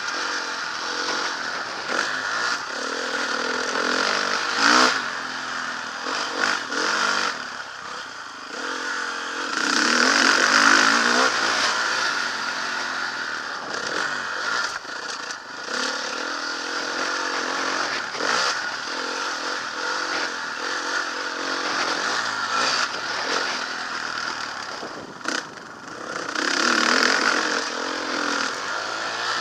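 Motocross bike engine revving up and falling back again and again as it is ridden round a dirt track, loudest about ten seconds in, with scattered knocks and rattles and a rush of noise throughout.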